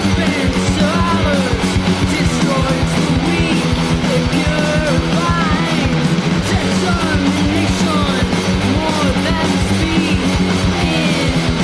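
A rock song with loud distorted guitars and a sung vocal, playing steadily.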